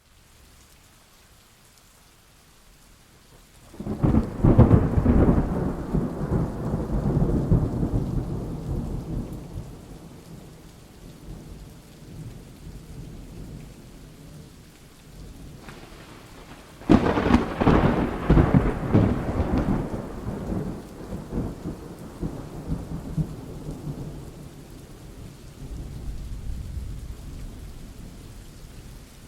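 Thunderstorm: rain falling steadily, with two thunderclaps. The first breaks about four seconds in and rumbles away over several seconds. The second is a sharper crack about seventeen seconds in, followed by a long rolling rumble.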